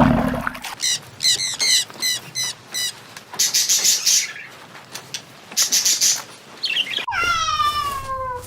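A run of quick, high chirps and two short hissy bursts, then about seven seconds in a cat gives one long meow that falls in pitch.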